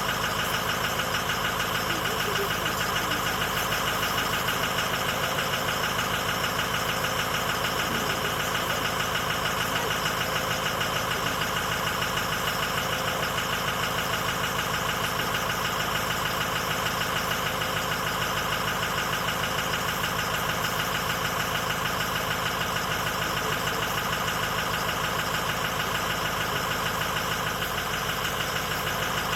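Stock 2006 Ford F-250's 6.0 Powerstroke V8 turbodiesel idling steadily after a cold start, with an even diesel clatter.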